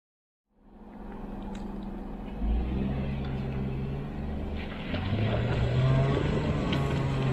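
Jeep engine running and revving, cutting in abruptly about half a second in; the revs step up about two and a half seconds in and again about five seconds in.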